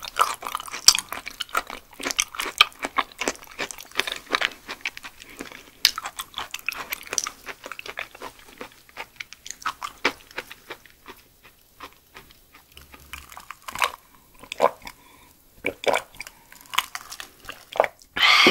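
Close-miked chewing of raw yellow stingray, firm and chewy sashimi, with wet mouth clicks and smacks. The chewing is dense for about the first half and then thins out into scattered smacks.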